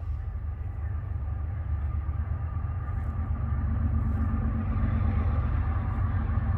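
Diesel freight train rumbling steadily, growing gradually louder as it approaches.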